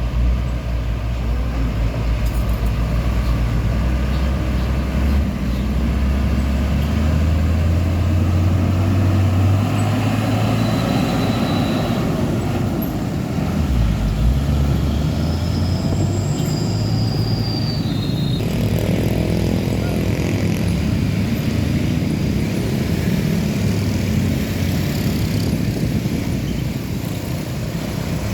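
Heavy diesel truck engines running and road traffic passing, the engine note shifting in pitch as vehicles go by, with a few brief high squeals about halfway through.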